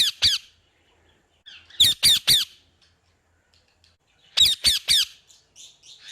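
A parrot squawking: harsh calls in quick sets of three, one set about two seconds in and another about four and a half seconds in, followed by a few softer, shorter calls near the end.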